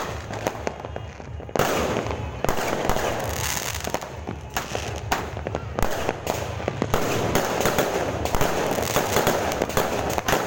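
Fireworks going off in quick succession: many overlapping bangs and crackles, with a sharp louder bang about a second and a half in.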